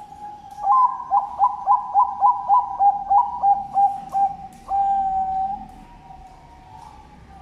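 Zebra dove (Bangkok perkutut) singing: a quick run of about a dozen short coos, each falling in pitch, at roughly three a second, then one long drawn-out final note.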